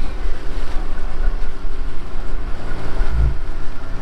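Boat engine running steadily while under way, with a gusty rumble of wind on the microphone.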